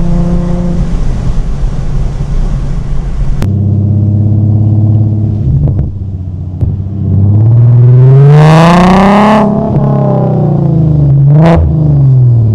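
Infiniti G37's 3.7-litre V6 heard through an aftermarket exhaust with high-flow cats, Y-pipe, resonators and a 3.5-inch mid pipe, mic'd at the exhaust. It runs at steady revs, then about seven seconds in the revs climb for about two seconds to a loud peak and drop back. Near the end they rise and fall once more, briefly.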